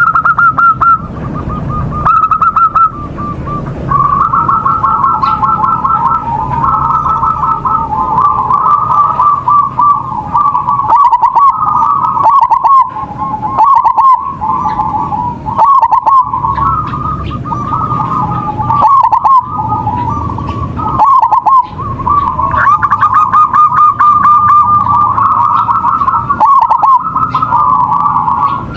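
Local perkutut (zebra dove) in full song, its rolling trilled coos repeating almost without pause.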